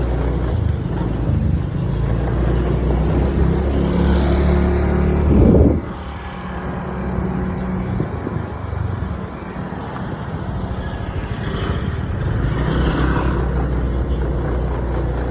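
Motorbike running along a road, heard from on board, with a steady low rumble. The sound swells to its loudest about five seconds in and drops away sharply just before six seconds, then builds again near the end.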